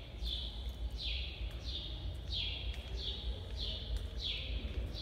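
A bird calling repeatedly: short chirps that each drop in pitch, evenly spaced at nearly two a second, over a low rumble.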